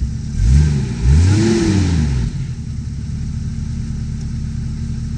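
A Jeep's engine under a crawl, blipped twice in quick succession: the pitch rises and falls each time, the second rev longer and higher. It settles back to a steady low run as the Jeep works its way over the rocks.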